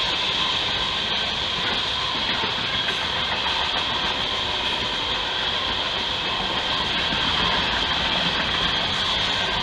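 Freight train of refrigerated boxcars rolling steadily past a grade crossing: a continuous rumble of wheels on rail with a high hiss over it.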